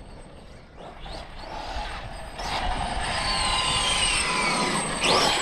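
Losi 5ive TE 3.0 1/5-scale electric RC truck driving, its brushless motor whining up in pitch as it accelerates, falling away as it slows, and climbing again near the end, over a low rumble.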